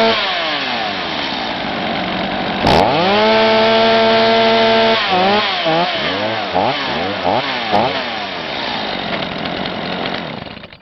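Small Stihl two-stroke engine being revved by hand: quick throttle blips, one held at high revs for about two seconds, then short blips and a steady idle before it cuts out at the very end.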